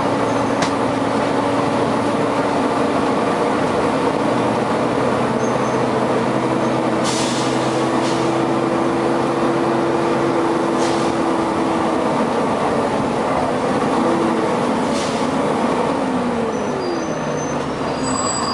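Volvo B9TL double-decker bus running, its engine and very loud cooling fan making a steady drone with a hum. Short air hisses break in several times.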